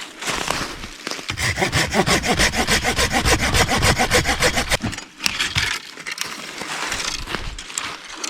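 Hand saw cutting through a piece of firewood in fast back-and-forth strokes, hardest from about a second in to about five seconds, then lighter strokes.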